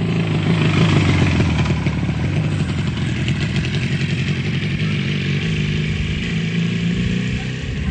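Motorcycle engine running steadily, loudest about a second in.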